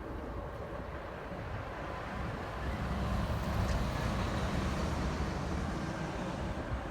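Jet airliner's engines rumbling during a landing, swelling about two to three seconds in, with strong wind buffeting the microphone.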